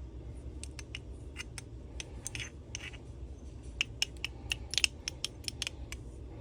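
Small engine parts being handled at the bench: a string of sharp metallic clicks and light scrapes, coming thicker and louder in the second half, over a steady low hum.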